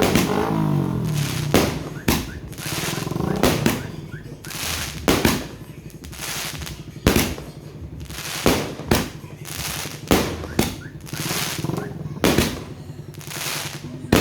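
A 120-shot consumer fireworks cake (Pegasus Rich Boss) firing a shot about every one to two seconds. Each shot is a sharp bang, with hissing and crackling in between.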